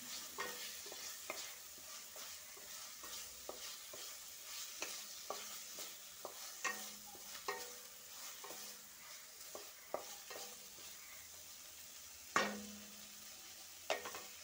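Spice paste with green chillies sizzling in oil in a wok while a spatula scrapes and taps the pan in irregular strokes, with one louder knock near the end. The masala is being fried down (kashano) before water is added.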